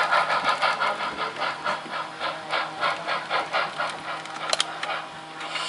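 Sound-equipped model steam locomotive chuffing at about four beats a second while switching, the chuffs dying away near the end, with one sharp click about four and a half seconds in.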